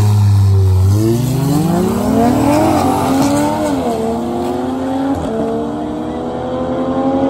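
A car engine accelerating hard through the gears. Its pitch climbs steadily and drops back at each upshift, about three, four and five seconds in.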